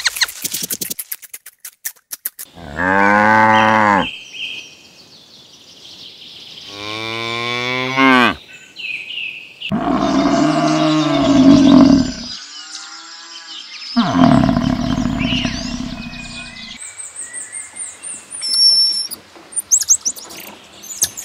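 Four long, deep moos from a bovine, each lasting one to three seconds, a few seconds apart, some bending in pitch. At the very start a rabbit is crunching a carrot in quick clicks, and birds chirp near the end.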